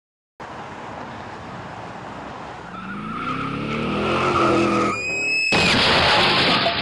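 A car engine revving up, its pitch rising. About five seconds in comes a high tyre squeal, then a sudden loud noise.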